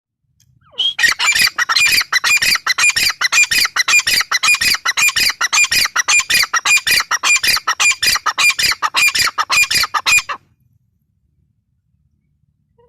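Gray francolin (teetar) calling: a long, loud run of harsh, rapidly repeated notes, several a second, that starts about a second in and cuts off suddenly near ten seconds.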